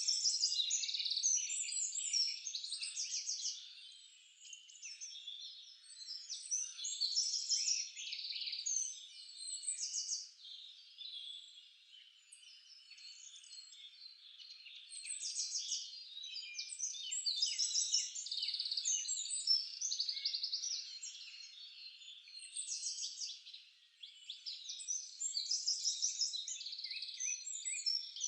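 Several songbirds singing at once, overlapping chirps and fast trills in phrases of a second or two, with quieter spells between them.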